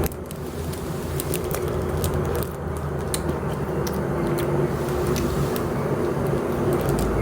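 Person chewing mushroom and cheese pizza, with scattered mouth clicks and smacks, over a steady low rumble.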